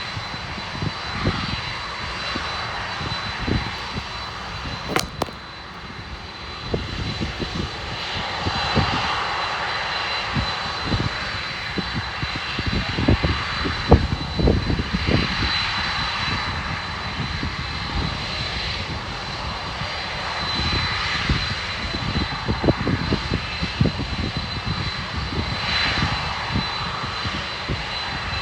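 Boeing 747-400F turbofan jet engines running with a steady rush and a thin high whine. Irregular low thumps of wind buffet the microphone throughout, and there is one sharp click about five seconds in.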